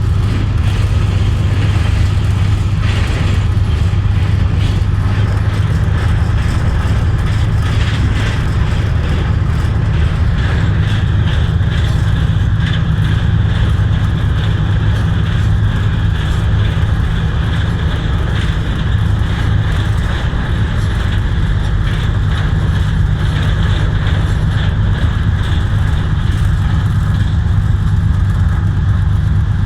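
Pakistan Railways Khyber Mail express train running steadily at speed, a continuous loud rumble with no break or change.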